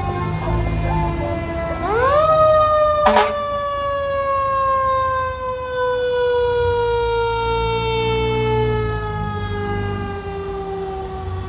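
Fire apparatus siren winding up quickly about two seconds in, then falling slowly in a long, drawn-out wail, with a brief sharp sound soon after the rise. The truck's engine rumbles low underneath.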